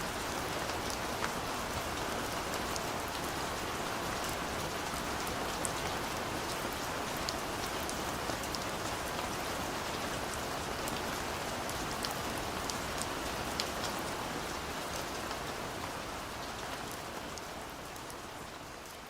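Steady rain falling, with a dense hiss and scattered sharp drop ticks, fading out over the last few seconds.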